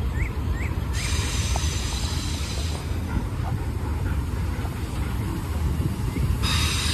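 Freight train of enclosed autorack cars rolling slowly past: a steady low rumble of wheels on rail, with a higher hiss that comes in about a second in and again near the end.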